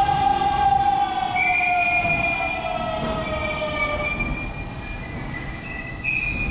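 Hanshin 9000 series electric train moving through an underground station: a strong whine that falls in pitch over a few seconds, with high steady squealing tones joining about a second and a half in, over the rumble of the cars.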